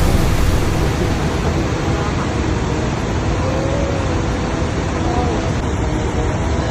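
Steady, even rushing noise of outdoor ambience, with a few faint wavering tones in it.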